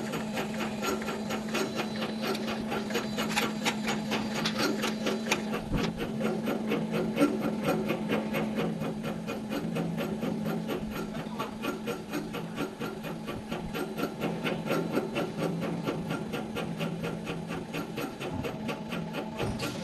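A machine runs steadily with a low hum and a rapid, even ticking, while water flows through a flow-meter test line.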